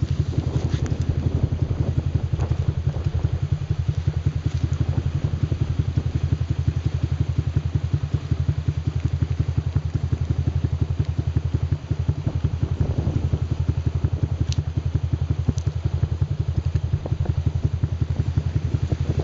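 ATV buggy engine idling, a steady, even throb.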